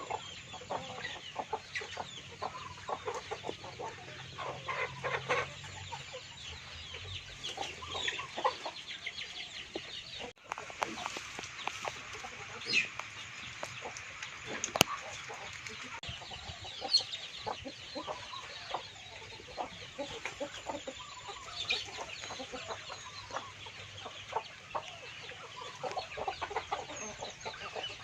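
A flock of domestic chickens clucking, with many short overlapping clucks and a few higher calls.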